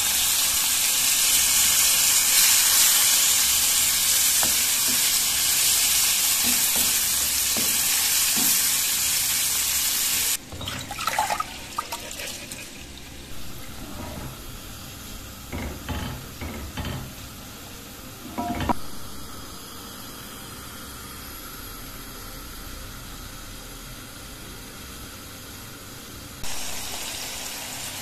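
Diced meat and onions sizzling in hot oil in a frying pan. About ten seconds in it cuts to a quieter stretch where a wooden spoon stirring rice in water knocks a few times against the pot. The sizzling comes back near the end.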